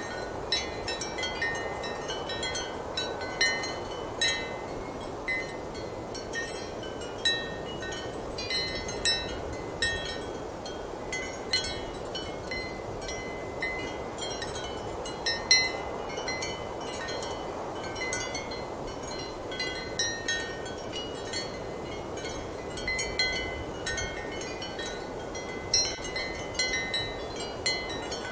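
Ceramic wind chimes struck irregularly by the wind, ringing several short high tones, over a steady rush of strong wind.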